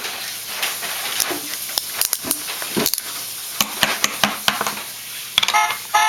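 Irregular plastic clicks and rattles from a child's toy car being handled, then near the end a short electronic tune from the toy starts up.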